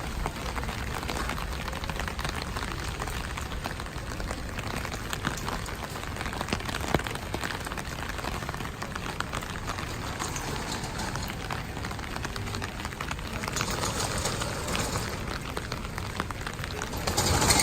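Steady rainfall, a dense patter of many small drop impacts over a hiss. A rushing swell rises about two-thirds of the way in and a louder one near the end.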